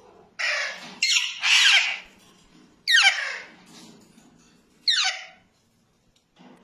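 Alexandrine parakeets squawking: about five loud, harsh calls, each falling in pitch.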